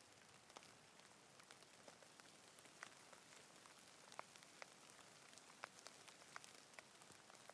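Quiet, steady rain: an even hiss of rainfall with scattered individual drops ticking sharply close by.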